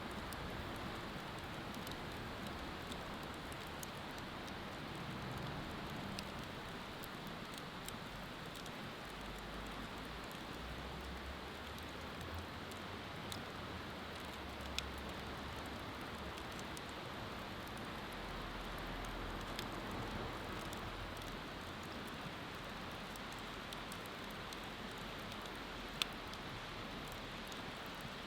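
Open wood fire burning with scattered small crackles over a steady rushing hiss; two sharper pops, one about halfway and one near the end.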